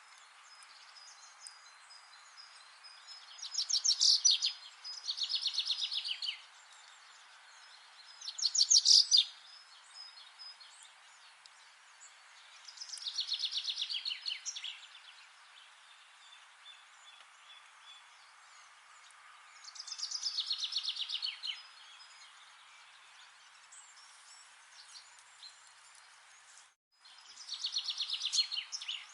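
A songbird repeats a fast, high trill every few seconds, each bout a rapid run of evenly spaced notes lasting one to two seconds. Under it runs a steady hiss of forest ambience. The sound cuts out for an instant near the end.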